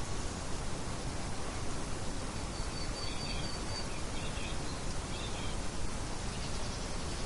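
Birdsong ambience: a brief high trill and a few short bird chirps, about three seconds in, over a steady outdoor background hiss.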